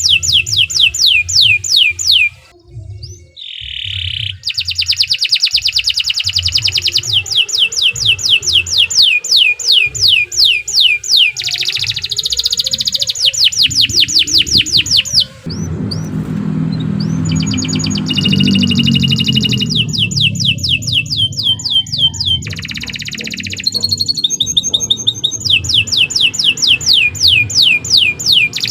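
Domestic canary singing a long song of fast trills: rapid falling notes repeated about ten times a second, switching between trill types every few seconds with brief breaks. A low hum sits underneath for a few seconds in the middle.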